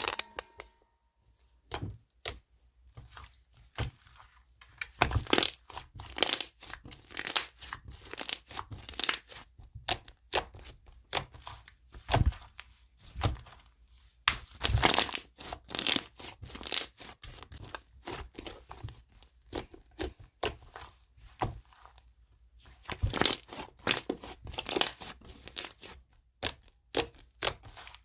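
Hands playing with a cream slime, squishing, poking and stretching it, giving a stream of irregular sticky crackles, clicks and small tearing sounds.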